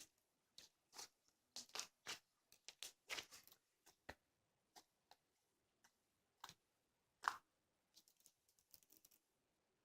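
Faint, irregular small clicks and brief rustles, like handling noise, with one louder tap about seven seconds in.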